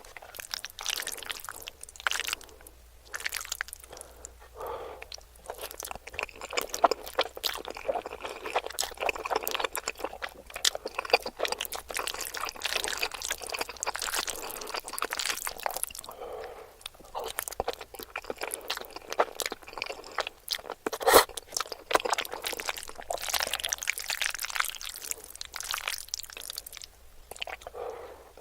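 Close-miked chewing of food: a steady run of crunches and wet mouth sounds, with one sharper crunch about two-thirds of the way through.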